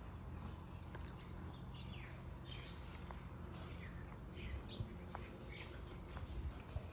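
Birds chirping: a string of short, high, falling chirps repeating about twice a second over faint street background.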